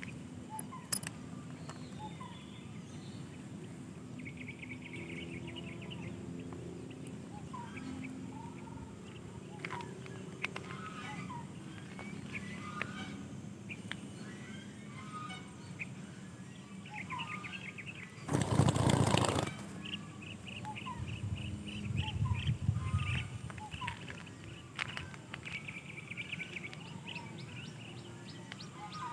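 Birds chirping and calling in short trills and twitters, with a loud rustling burst about two-thirds of the way through.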